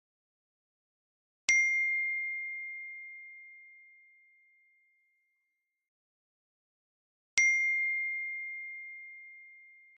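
Two bell-like dings about six seconds apart, each a sharp strike that leaves one clear high tone slowly fading away; the track is otherwise silent.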